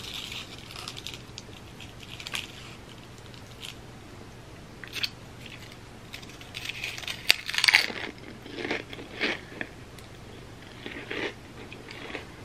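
A chip loaded with cheese dip being scooped, bitten and chewed close to the microphone: faint scrapes and clicks at first, then a run of crisp crunches, loudest about eight seconds in, with a few more near the end.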